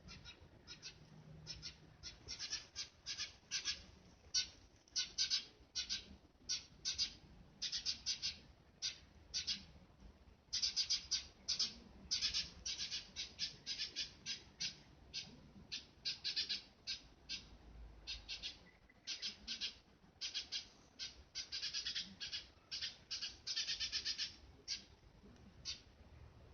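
Eurasian tree sparrows chirping: rapid runs of short, high chirps, some loud and close, with brief pauses between the runs.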